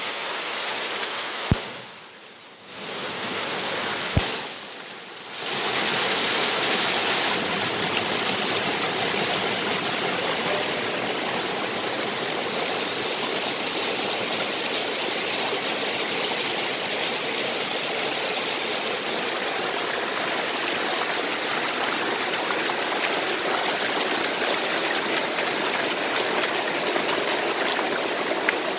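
Stream water and a waterfall rushing steadily. In the first few seconds the sound dips twice, each dip with a sharp click, before settling into an even flow.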